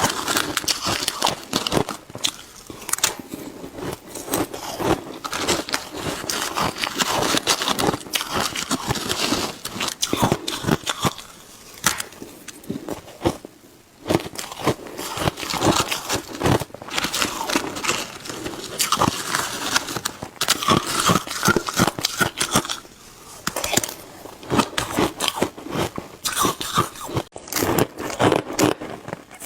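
Close-miked biting, crunching and chewing of shaved ice: dense, irregular crackling crunches, with a brief lull about halfway through.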